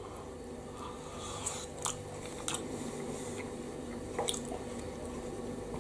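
A person chewing a mouthful of tuna pasta bake, with a few sharp clicks over a faint steady hum.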